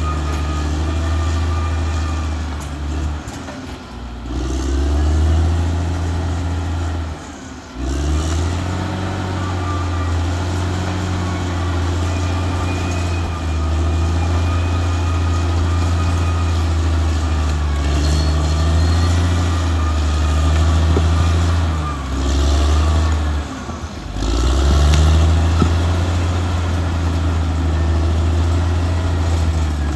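Caterpillar D6R XL bulldozer's diesel engine running under load, its low drone sagging in pitch several times as the load comes on and then recovering. A thin high whine runs alongside it.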